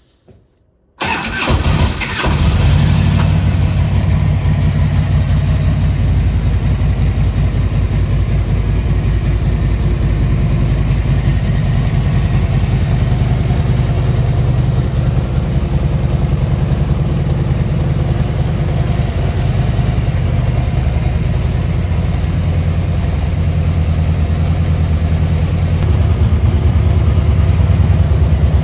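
A 2005 Harley-Davidson Road King Classic's Twin Cam 88 V-twin engine is started about a second in: a short crank, it catches, then settles into a steady, deep idle. Near the end it runs a little louder.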